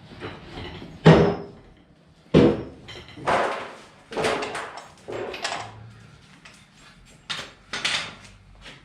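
A string of irregular knocks and bangs from things being handled in a workshop, about seven in all, the loudest about a second in, with quieter rustling and clatter between.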